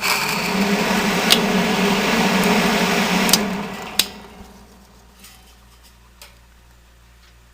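1970 Triangle Mobile Home Products bathroom exhaust fan starting up. It rattles loudly for about three and a half seconds, a rattle from its worn motor bearings, then settles to a faint, smooth run.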